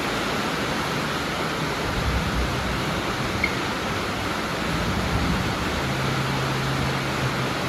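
Heavy rain falling, a dense steady hiss that does not let up. A faint low hum joins in for a couple of seconds about six seconds in.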